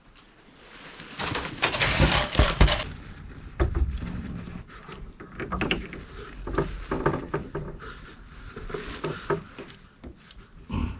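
Rustling, clicks and knocks of PEX pipe, fittings and a crimping tool being handled while a fitting is put on and crimped. The longest, loudest rustle comes about a second in; after it come scattered sharp clicks and knocks.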